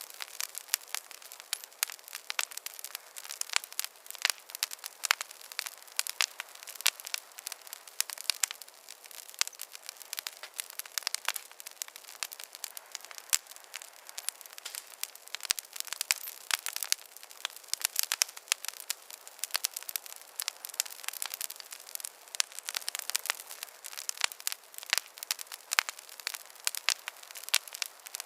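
Wood fire crackling in a fireplace: a dense run of irregular sharp pops and snaps over a soft hiss.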